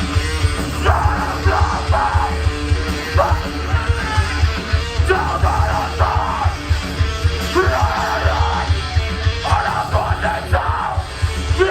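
Hardcore punk band playing live: fast, heavy drums and bass under distorted guitar, with repeated shouted vocal phrases.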